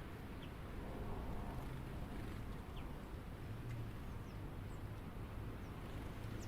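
Outdoor backyard ambience: a steady low hum with a few faint, short high bird chirps scattered through it.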